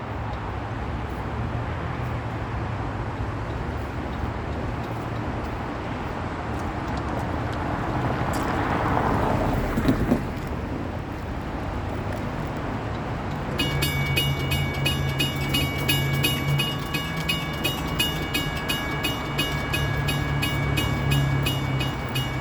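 Train at a railroad crossing: a steady low rumble with a swell of noise about nine seconds in. From a little past halfway, a rapid, evenly repeating high ringing of the crossing bell starts and keeps going.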